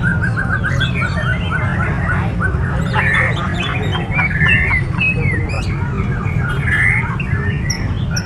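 A chorus of caged songbirds calling and singing over one another: a fast run of repeated chirps at the start, then scattered whistled notes and squawks, over a steady low rumble.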